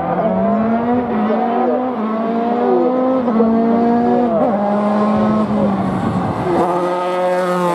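Race car engine running at full throttle up a hill-climb course. The pitch climbs in each gear and drops sharply at each of several upshifts.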